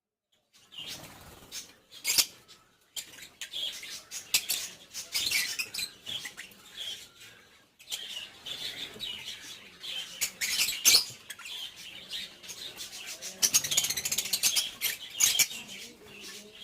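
A colony of lovebirds chirping and calling over one another in a dense, high-pitched chatter, with sharp clicks mixed in. It starts about half a second in.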